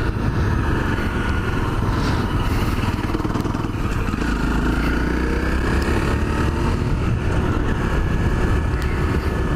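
Honda CRF250L's single-cylinder four-stroke engine running under way, its pitch dipping and climbing again about halfway through.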